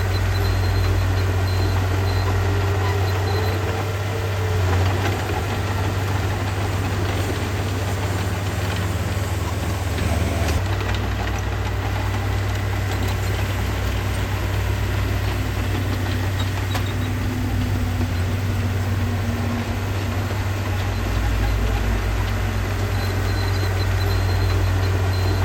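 Diesel engine of heavy earthmoving machinery running steadily with a deep, even drone.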